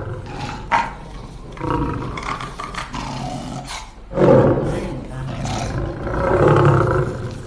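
A dog growling in several loud, drawn-out bouts, the strongest about four seconds in and another near the end.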